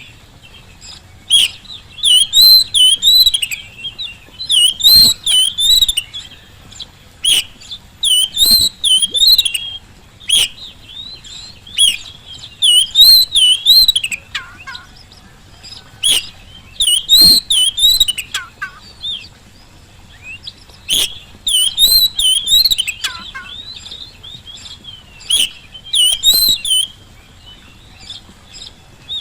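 Oriental magpie-robin (kacer) singing in full, lively song: loud, repeated phrases of rapid, warbling, up-and-down whistles, each a second or two long, with short pauses between. A few lower sliding notes come in around the middle.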